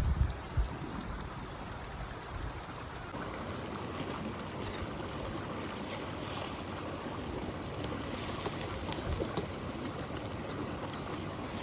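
River flowing steadily, with a few low thumps right at the start. About three seconds in the rushing gets brighter and faint scattered ticks sound over it.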